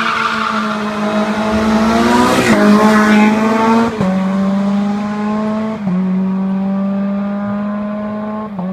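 A Renault hillclimb race car's engine pulling hard at high revs. Its pitch creeps up and then drops abruptly about four times as the driver shifts up through the gears.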